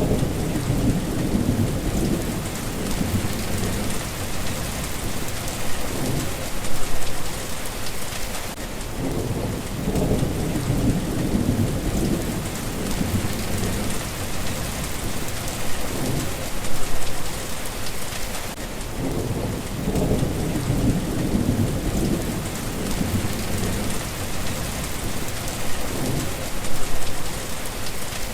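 Steady rain with low rolls of thunder that swell and fade several times.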